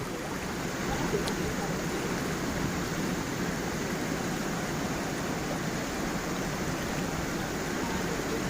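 Water of a small forest stream flowing and splashing over stones at a low waterfall, a steady, even rush.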